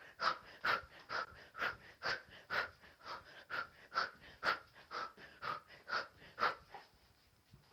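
A person's sharp, forceful exhalations while throwing punches and elbow strikes, about two a second in a steady rhythm, stopping about a second before the end.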